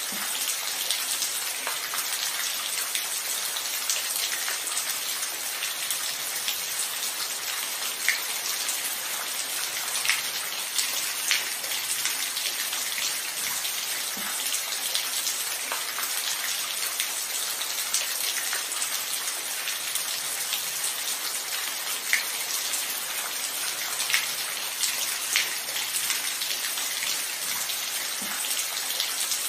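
Steady rain falling, an even hiss with scattered louder individual drops ticking now and then.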